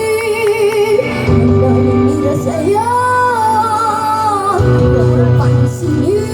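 A young girl singing over a band backing track, holding long notes with vibrato: one note in the first second, then a higher note held for about two seconds near the middle.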